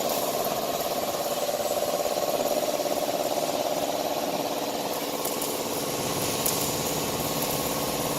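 Plasma cutting machine cutting carbon steel: a steady buzzing hiss from the arc that holds an even level throughout, with a couple of faint ticks about five and six and a half seconds in.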